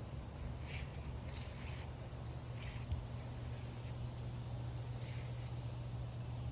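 Insects, crickets by the sound of it, trilling in one continuous high-pitched drone, over a low steady hum.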